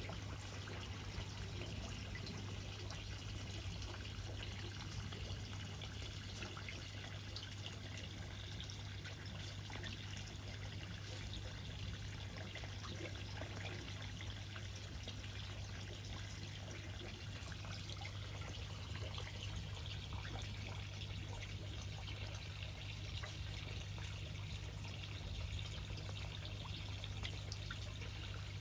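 Water trickling and splashing steadily, with many small drips, over a steady low hum.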